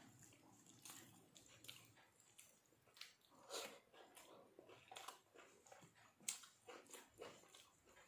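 Faint close-up eating sounds: chewing with irregular soft mouth clicks and small crunches.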